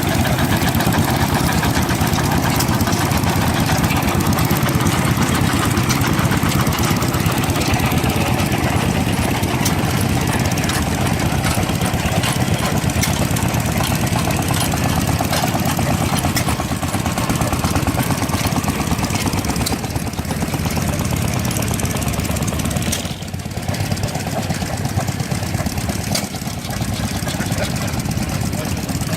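An engine running steadily at close range with a fast, even beat, easing off briefly a few seconds before the end.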